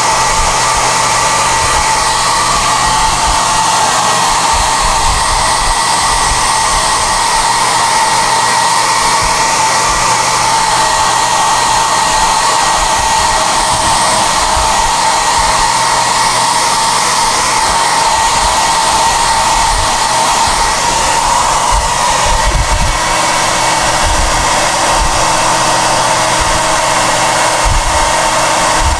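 SOUNATE high-airflow hair dryer (XM-H008/YX-HM008-G) running steadily at high speed: a loud, even rush of air with a faint motor whine. About two-thirds of the way in the sound shifts a little, with a low hum and uneven low rumbles joining.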